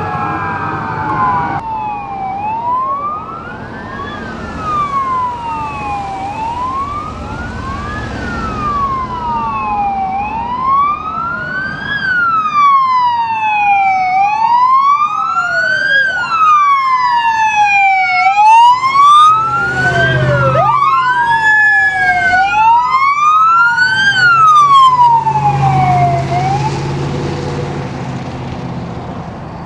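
Emergency vehicle sirens on wail, sweeping slowly up and down about every four seconds, with a second siren joining out of step partway through and a third sweeping up from low near the middle. Vehicle engine rumble underneath, the whole growing louder toward the middle and fading near the end as the vehicles pass.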